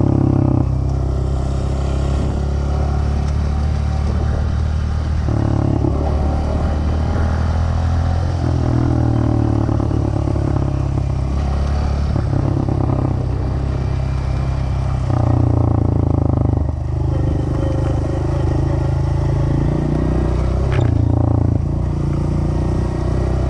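Dirt bike engine running while being ridden, its note shifting up and down every second or two with the throttle.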